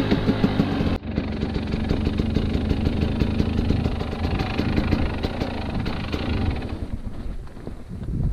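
Husqvarna TE 250 enduro motorcycle engine running under way, mixed with wind and rumble on the helmet camera's microphone. The sound changes abruptly about a second in, then the engine runs on and eases off near the end.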